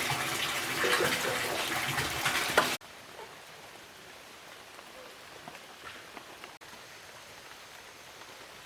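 Water splashing and pattering densely, with many small drips and ticks, for nearly three seconds, then cut off suddenly to a faint steady ambience with a few scattered ticks.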